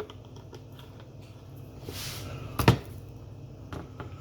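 A sharp knock about two and a half seconds in and a fainter click about a second later, over a low steady hum.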